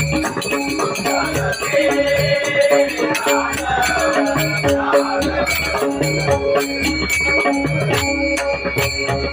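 Instrumental bhajan accompaniment: a two-headed drum beating a steady rhythm, harmonium playing held notes and a melody, and small hand cymbals jingling on the beat.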